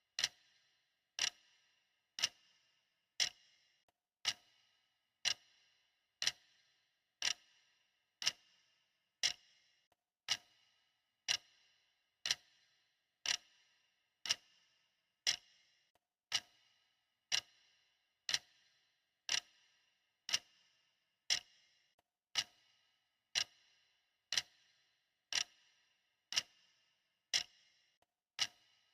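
Clock ticking steadily, about one tick a second, each tick a sharp click with a short ring.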